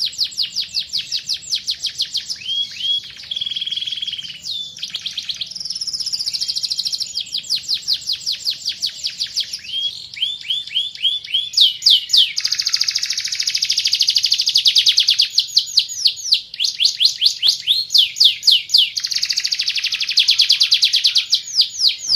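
Van Hesterling canary singing a long, fast song of rapid trills made of quickly repeated notes. About three seconds in it holds a short steady whistle, and the trills grow louder in the second half.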